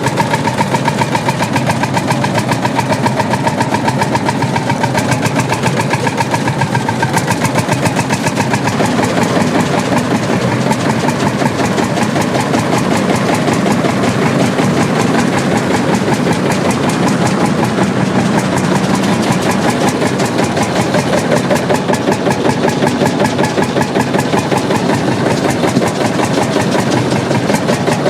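1936 McDonald Imperial Super Diesel tractor engine running at a steady idle, with an even, rapid exhaust beat.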